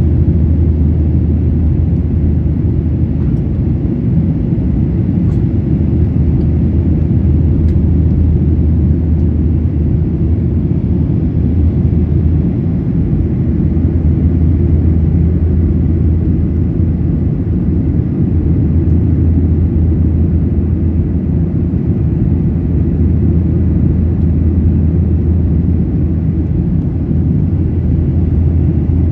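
Steady low cabin rumble of a Boeing 737-800 in flight: its CFM56-7B turbofan engines and the airflow, heard from inside the cabin at a window seat.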